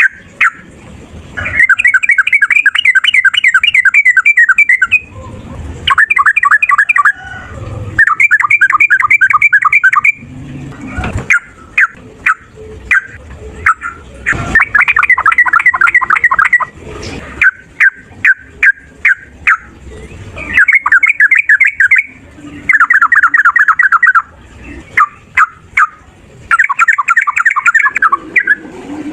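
Yellow-vented bulbul singing: rapid runs of fast repeated chattering notes, each one to three seconds long, broken up by short single sharp calls.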